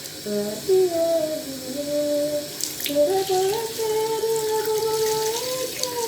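A single voice singing a slow wordless melody in long held notes that step up and down, over a steady hiss.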